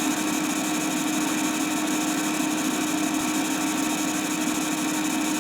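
Steady hum with a strong single low tone and an even hiss, unchanging throughout: background noise of an old film soundtrack.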